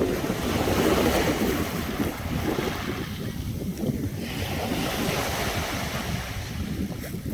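Strong wind buffeting the microphone with an irregular low rumble, over the steady wash of sea surf.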